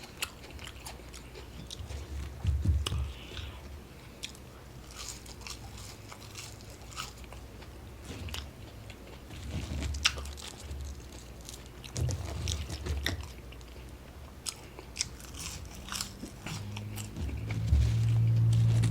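Close-up chewing and biting of a fast-food burger and fries, with scattered short wet mouth clicks. A steady low hum comes in near the end and is the loudest thing there.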